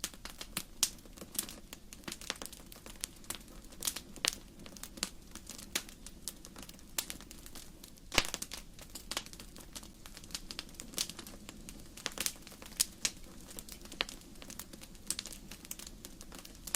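Wood fire crackling in a fireplace: irregular sharp pops and snaps of burning logs, a few louder ones such as about 8 seconds in, over a steady low rumble of the flames.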